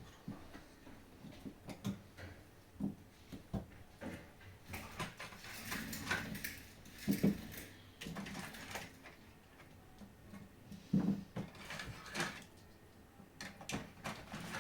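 Small plastic parts of a DualSense controller being handled and worked apart: irregular clicks, taps and short scrapes, several a second in places.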